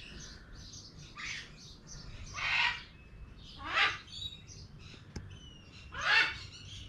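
A bird squawking, four short harsh calls a second or so apart, with faint thin whistled chirps between them.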